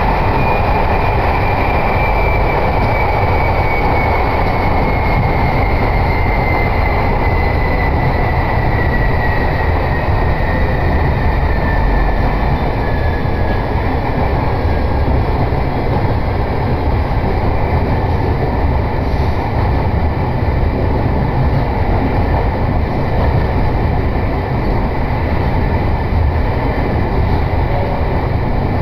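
Local train running, heard from inside the passenger car: a steady rumble of wheels on the track, with a faint whine that slowly falls in pitch over the first half.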